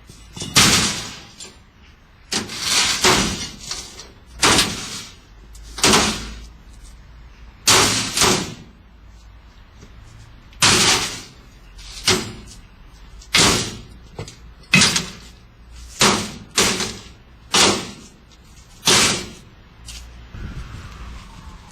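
A washing machine being banged again and again: sharp bangs roughly every one to one and a half seconds, each dying away quickly, with the last few weaker.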